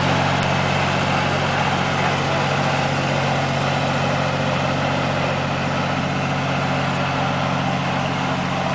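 John Deere 950 tractor's three-cylinder diesel engine running at a steady speed.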